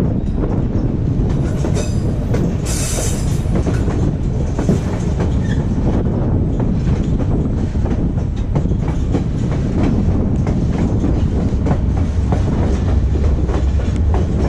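Passenger train cars rolling along the track, heard from aboard: a steady loud rumble with the wheels clicking over the rails.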